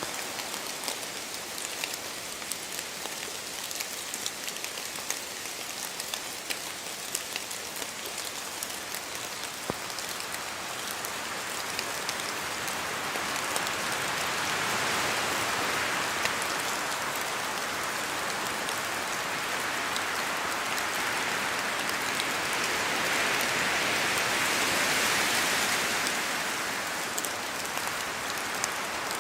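Rain falling in a forest: a steady patter with individual drops ticking as they fall from the trees. A gust of wind in the trees swells the hiss through the middle and eases off near the end.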